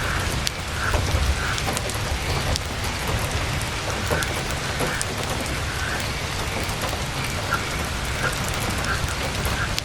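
Heavy rain drumming steadily on a tent, with a low rumble underneath and scattered sharp ticks of single drops or crackles.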